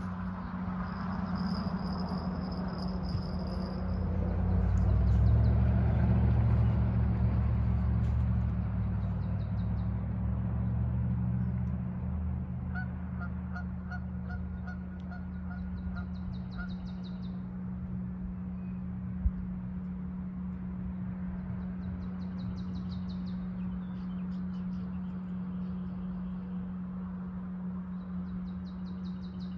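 A bird honking in a quick series, about three calls a second, for several seconds midway, over a steady low hum and a low rumble that swells in the first third. A single sharp click about two-thirds of the way through.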